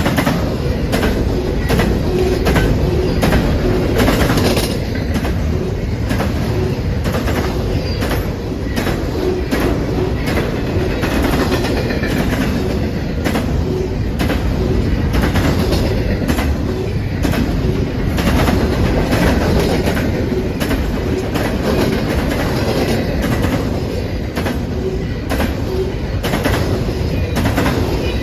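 A freight train rolling past at a steady loud level, its wheels clicking over rail joints at regular intervals.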